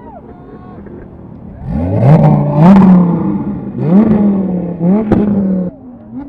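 A vehicle's engine accelerating hard up through the gears, its pitch climbing and dropping back at each shift, with sharp cracks at some of the shifts. It starts about a second and a half in and cuts off suddenly near the end.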